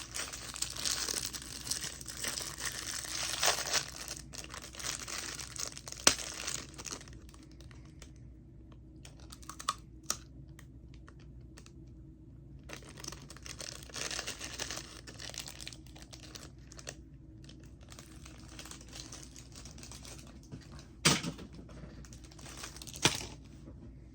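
Plastic snack wrapper crinkling and tearing open in two stretches with a quieter pause between, and a few sharp clicks, the loudest two near the end.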